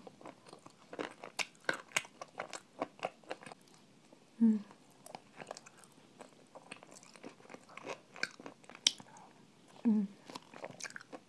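Close-miked crunching and chewing of spoonfuls of crunchy food, a rapid run of sharp crisp crunches. A short low hum from the eater comes twice, about four and a half seconds in and near the end, and these are the loudest sounds.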